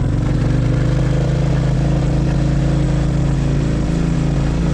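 Royal Enfield motorcycle engine pulling steadily in a low gear up a steep hill road.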